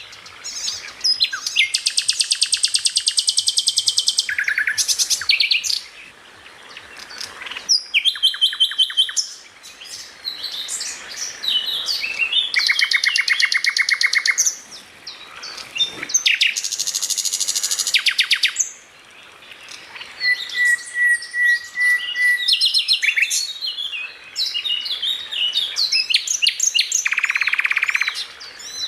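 Songbirds singing a varied, continuous medley: long rapid trills lasting a second or two, chattering runs and a row of short even whistled notes, with brief pauses between phrases.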